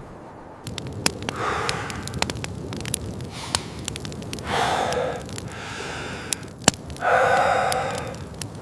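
A person breathing hard: three long, heavy breaths about three seconds apart, over scattered sharp crackles.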